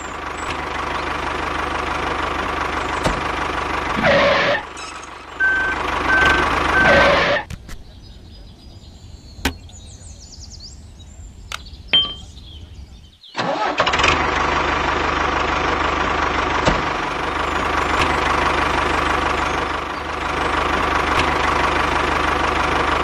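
A small vehicle engine running steadily, cutting out for about six seconds in the middle and then running again. Three short beeps sound a little before the cut.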